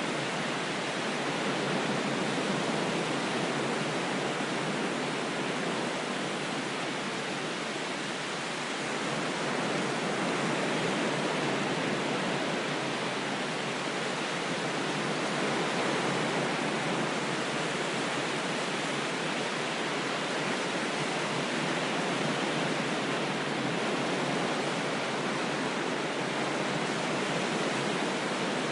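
Ocean waves washing on a shore, heard as a steady, even rush of noise with only slight swells in level.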